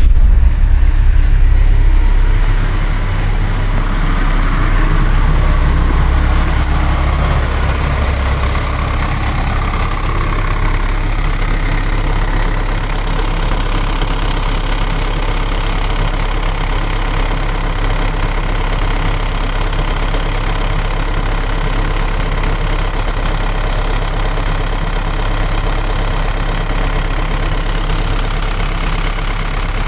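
1998 Samsung 130LC excavator's diesel engine running, a little louder for the first few seconds, then settling to a steady idle.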